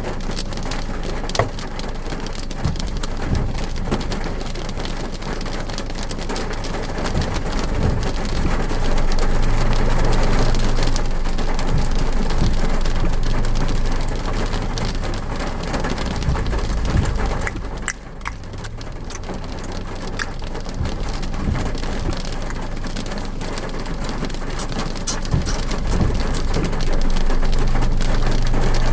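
Rain falling on a car, heard from inside the cabin: a steady hiss with many single drops clicking. It grows louder for a while, dips briefly about two-thirds of the way through, then builds again near the end.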